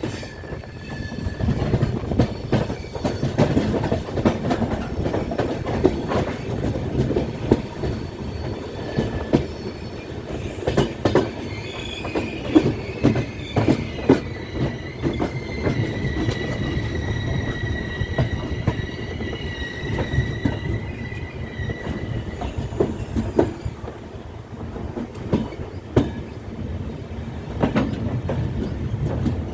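Express passenger train rolling into a station: a steady rumble with the clatter of wheels over rail joints, and a high, steady wheel squeal as it slows, starting about twelve seconds in and lasting some ten seconds.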